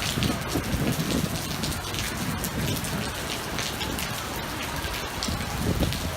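Torrential typhoon rain pouring down steadily, with many sharp drop hits close by and a low rumble underneath.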